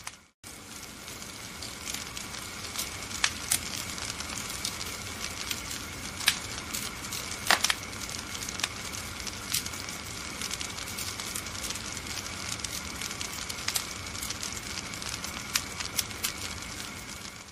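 Wood fire crackling in a fireplace: a steady hiss with frequent sharp pops and snaps, a few of them louder. The sound cuts out for a moment right at the start.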